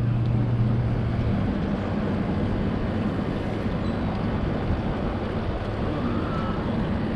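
Boat motor running steadily under wind and water noise; its low hum fades about a second and a half in.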